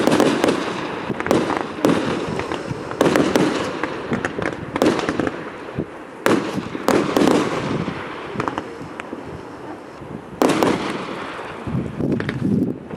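Fireworks display: aerial shells bursting one after another with sharp bangs every second or two, each trailing off in a rumble and crackle. A heavy burst comes about ten and a half seconds in.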